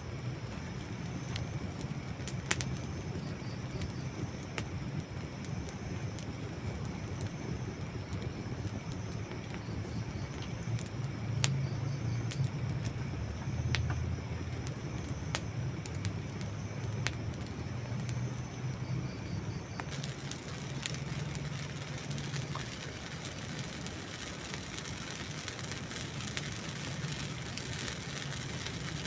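Wood campfire burning, with a low steady rumble of flames and sparse sharp pops and snaps from the burning logs. About two-thirds of the way through, a brighter, steady hiss joins in.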